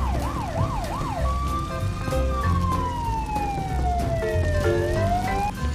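Fire-engine siren sound: a fast wail sweeping up and down about three times a second, which changes after about a second into one slow, long falling wail that turns upward again near the end.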